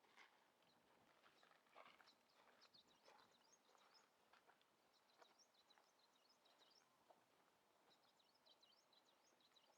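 Near silence, with faint quick high chirps of small birds coming in little clusters, and a few soft knocks in the first few seconds.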